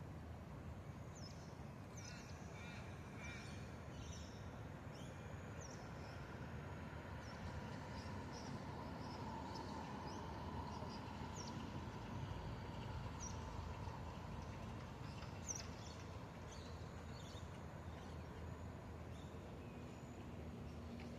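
A flock of small birds, likely swallows, chirping in short high calls scattered throughout, over a low steady background rumble. A faint hum swells in the middle and fades again.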